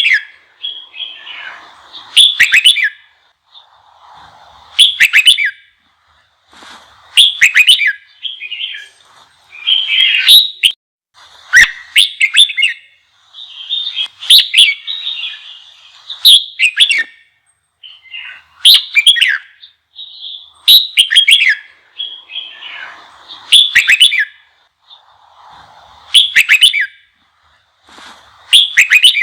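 Red-whiskered bulbul singing: short, loud, warbling song phrases with quick sweeping notes, repeated about every two seconds.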